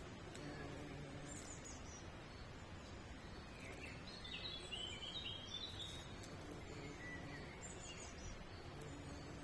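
Small birds chirping faintly: scattered short high chirps, with a quick run of short notes stepping down in pitch about four to six seconds in.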